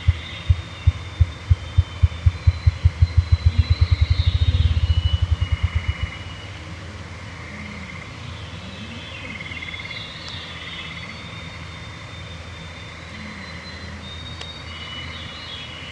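Ruffed grouse drumming: deep, hollow thumps that speed up from about two a second into a rapid whirr, ending about six seconds in.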